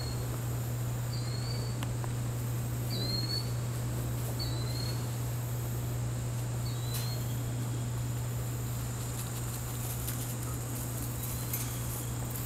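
A small bird repeating a short, high chirp about every second and a half, the calls dying out about seven seconds in. Under it run a steady low hum and a thin, steady high tone, with a little rustling near the end.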